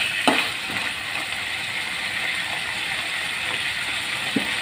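Diced banana stem frying in oil in a steel kadai, a steady gentle sizzle, with a couple of metal ladle clinks against the pan, one just after the start and one near the end.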